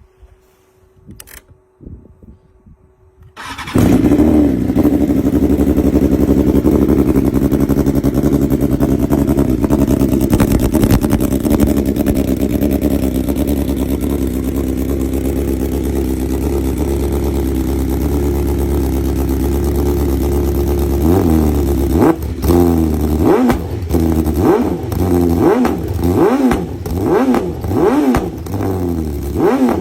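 BMW S1000RR's inline-four engine, breathing through an Akrapovič titanium slip-on exhaust, starts about three and a half seconds in after a few faint clicks. It runs at a loud, steady idle as on a cold start. Over the last eight seconds or so it is revved in a string of quick throttle blips, each rising and falling in pitch.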